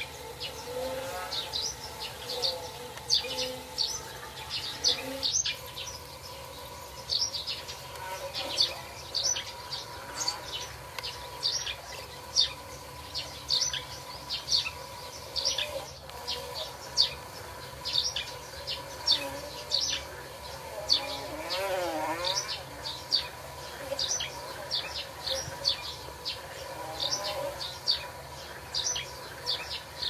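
Small birds chirping: many short, high calls repeating throughout, over a faint steady hum.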